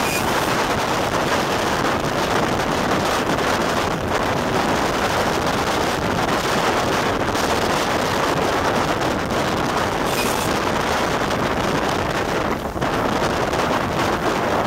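Steady rush of wind over the microphone from a moving steam-hauled train's carriage window, over the train's running noise.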